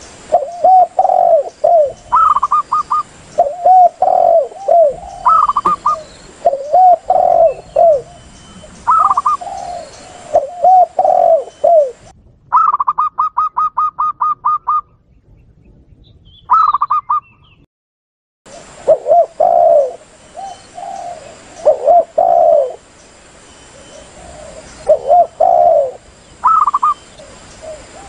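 Recorded lure calls of spotted doves (tekukur) and zebra doves (perkutut). Repeated low cooing phrases mix with short bursts of higher, quicker notes, including a long rapid run of notes about halfway through. The sound breaks off briefly about two-thirds in.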